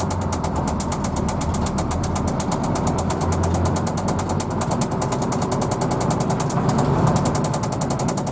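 Hino AK bus's diesel engine running steadily with a deep drone, and a fast, even ticking.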